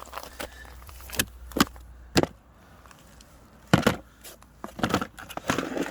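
A series of about six sharp clicks and knocks at uneven intervals, with a rustling near the end.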